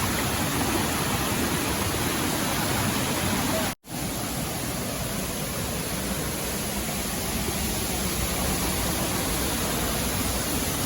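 Waterfall rushing: a steady, even wash of falling water. It cuts out to silence for a moment nearly four seconds in, then resumes.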